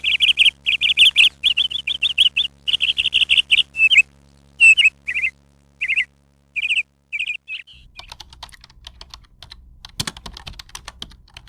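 A small bird chirping, first in quick runs of high calls, then in single chirps spaced about half a second apart. After about eight seconds the chirping stops and a rapid run of light clicks takes over.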